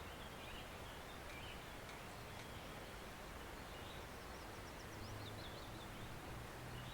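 Small forest stream flowing steadily, with small birds chirping over it, including a quick series of high notes about four to five seconds in.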